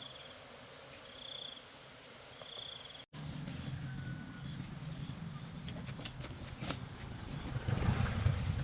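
Insects chirping in short bursts about once a second over a steady high-pitched buzz. About three seconds in, the sound cuts and a low rumble takes over, growing louder near the end with a few clicks.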